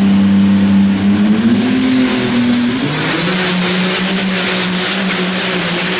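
A vehicle engine running hard at high revs, its pitch shifting a couple of times in the first three seconds and then holding steady.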